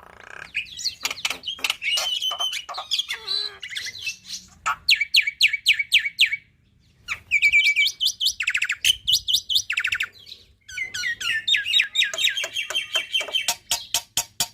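Black-winged myna singing a loud, varied song packed with mimicked phrases: whistles and rapid trains of sharp repeated notes, broken by two short pauses.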